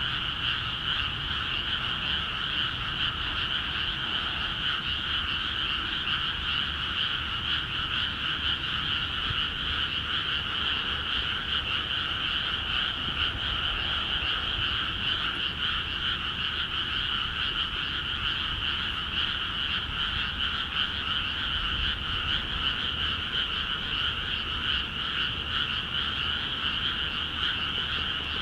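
Dense, unbroken chorus of many frogs calling together in flooded rice paddies, the calls blurring into a continuous trill: the frogs are calling actively now that water has been let into the fields.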